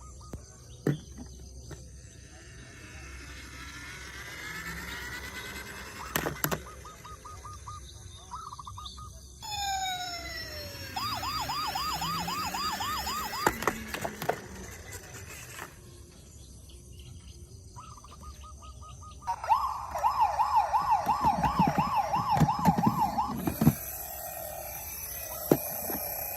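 Electronic sirens from toy emergency vehicles going off in turns: a slow rising wail, a few falling whoops, and several spells of fast warbling, the loudest and longest one near the end. A few sharp knocks are mixed in.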